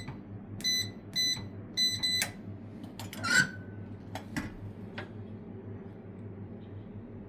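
Electronic keypad beeping, about five short beeps as buttons are pressed, followed by a brief scraping swish and a few sharp clicks, as when a room key is obtained.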